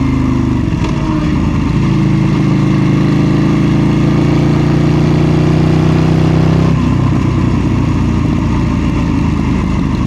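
KTM 790 Duke's parallel-twin engine running at low revs, its pitch creeping slowly upward. About two-thirds of the way through, the steady tone drops away and the engine sound turns rough and uneven.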